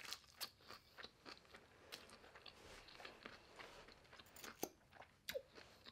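Faint, close-up chewing and crunching of a mouthful of raw vegetables and nori: irregular wet crunches and mouth clicks a few times a second, with a brief hum near the end.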